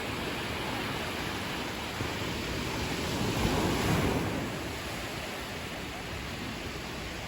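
Ocean surf: waves washing ashore in a steady rush, with one wave swelling louder about three to four seconds in.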